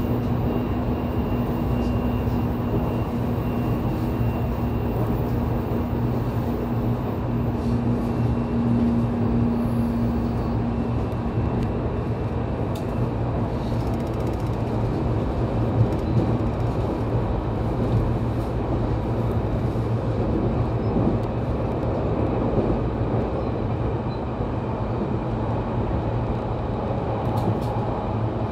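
Running sound inside the motor car of a JR Kyushu 813 series electric train under way between stations: a steady rumble of wheels on rail and a low traction-motor hum. The hum fades out about ten seconds in, and a few faint clicks sound from the track.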